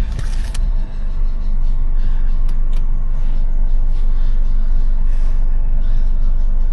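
Vehicle engine running with a steady low rumble, with a few faint clicks about two and a half seconds in.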